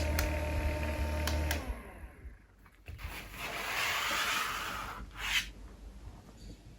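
Small USB mini fan's motor running with a steady hum and whine, a few clicks, then shutting off about a second and a half in. Afterwards a softer rushing noise swells and fades, with a short burst of noise near the end.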